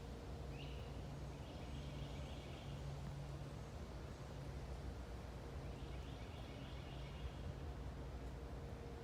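Bird calls: two bouts of rapid chattering notes, about five seconds apart, over a steady low hum.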